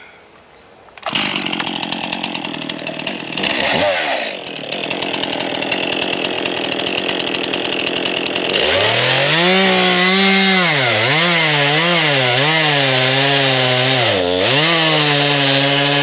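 Chainsaw coming in suddenly about a second in and running at a lower speed. From about halfway it revs high under load, its pitch repeatedly dipping and recovering as it cuts through a log.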